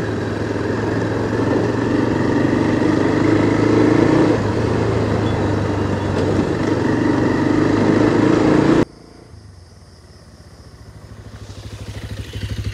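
Bajaj Pulsar 220F single-cylinder engine running steadily during a slow ride on a dirt track, with wind on the microphone. About nine seconds in it cuts abruptly to a much fainter engine sound that grows louder toward the end.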